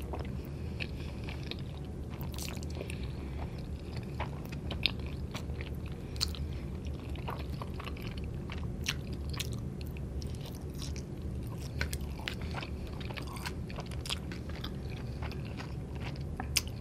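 Close-miked mouth sounds of a person chewing soft fettuccine pasta in a creamy sauce: wet smacks and clicks scattered throughout, over a faint steady low hum.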